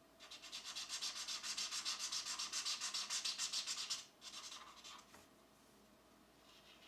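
Pencil shading on paper in quick back-and-forth strokes, about eight or nine a second, for about four seconds, then a few shorter bursts, with lighter strokes again near the end.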